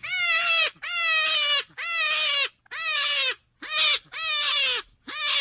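An animal calling over and over: about seven drawn-out, evenly spaced calls, each dropping in pitch at its end.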